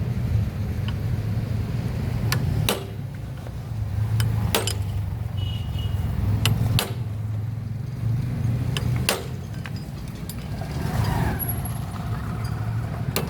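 Metal tools clicking and knocking against motorcycle engine parts every second or so during a teardown, over a steady low motor rumble.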